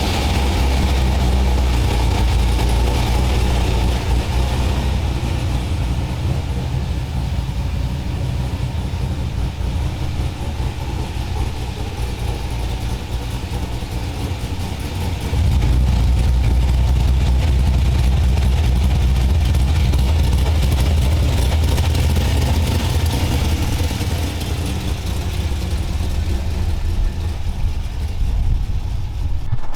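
2000 Chevrolet Corvette's 5.7-litre V8 running at idle just after a fresh oil change; the low rumble eases off a little for about ten seconds, then steps back up louder about halfway through.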